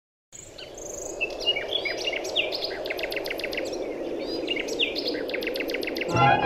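Birds chirping and trilling in quick, repeated calls over a steady background hiss. About six seconds in, music with bowed strings comes in.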